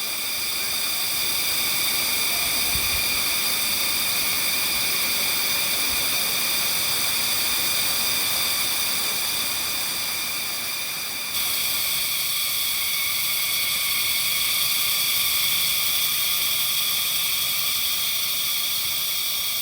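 Loud, steady chorus of forest insects, a dense high shrill drone made of several held pitches, over a rushing hiss of water from the waterfalls. The mix shifts abruptly about 11 seconds in, where the insect drone grows brighter.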